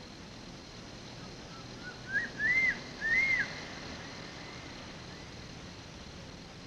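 Crested serpent eagle calling: a few short whistled notes that climb in pitch and lead into two loud, ringing arched whistles.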